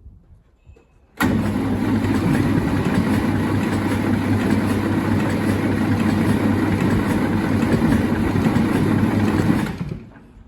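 Start attempt on the Zetor 440 tractor's diesel engine, its seized injection pump just freed and refitted: the engine turns over steadily for about eight and a half seconds. It begins abruptly about a second in and cuts off suddenly near the end.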